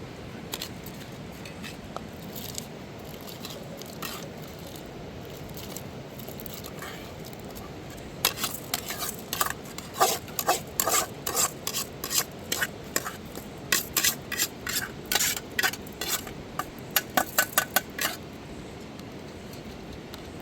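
Rapid scraping and clinking strokes, like a utensil worked against a pot, for about ten seconds from near the middle, over a steady rushing noise.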